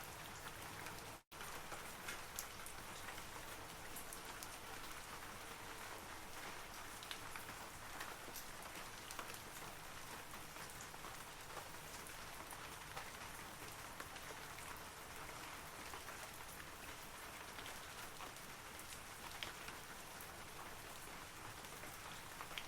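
Steady rain falling on forest foliage, a dense hiss dotted with many small droplet ticks. The sound cuts out for an instant about a second in, then carries on unchanged.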